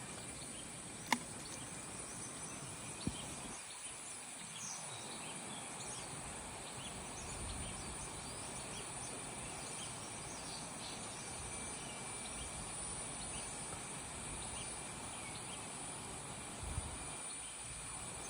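Outdoor nature ambience: a steady, high-pitched insect drone with scattered short bird chirps over it. A sharp click comes about a second in, and a fainter one about two seconds later.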